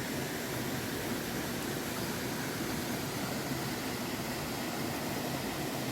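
Steady rushing of a mountain valley stream, an even unbroken hiss of flowing water.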